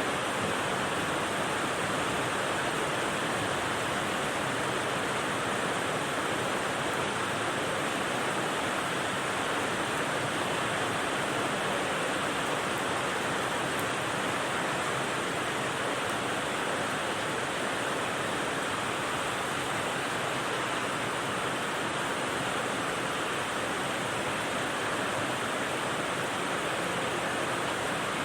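Steady, even hiss of heavy rain used as white noise, with no separate drops, gusts or changes.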